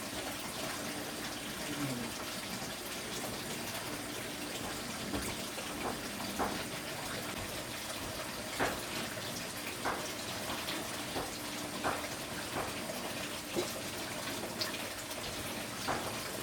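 Steady rush of running water, with sharp knocks every second or two in the second half.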